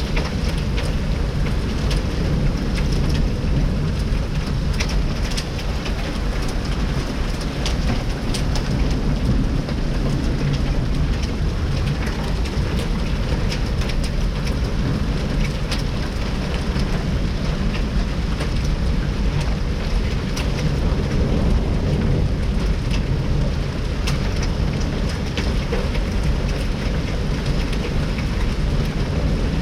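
Heavy rain pouring steadily, with many scattered sharp ticks of drops striking hard surfaces over a steady low rumble.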